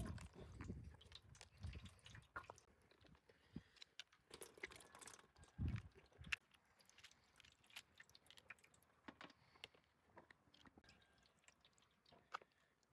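Near silence with faint, scattered small clicks and taps, and one soft low thud about halfway through.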